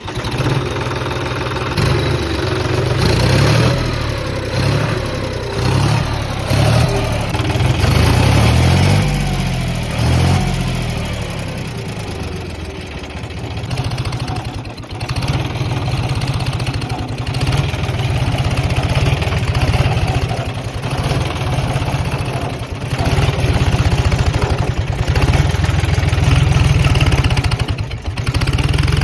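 John Deere tractor's turbocharged diesel engine revving up and down for the first dozen seconds or so, then running steadily, with the turbocharger whistling.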